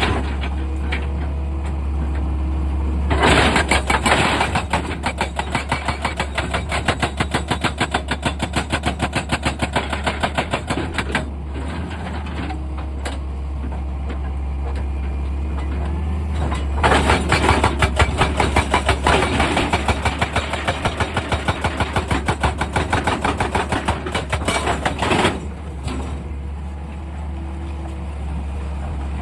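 Excavator engine running steadily, with two spells of rapid, rhythmic knocking, each lasting about eight seconds: one starts about three seconds in, the other a little past halfway.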